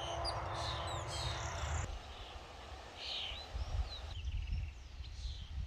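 Small birds chirping in short, scattered calls, over a steady low rumble. A hiss under the calls cuts off about two seconds in.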